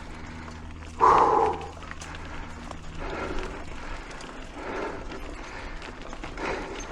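Mountain biker breathing hard in repeated breaths while pedalling up a switchback climb, with one loud short sound about a second in.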